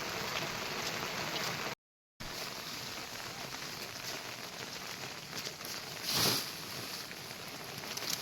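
Heavy monsoon rain falling as a steady hiss. The sound cuts out completely for a moment about two seconds in, and a short louder rush comes about six seconds in.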